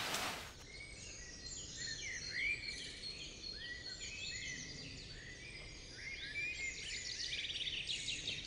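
Several small birds chirping over a faint outdoor hiss, with short arched chirps repeating every fraction of a second from about half a second in, and quicker, denser chirping near the end.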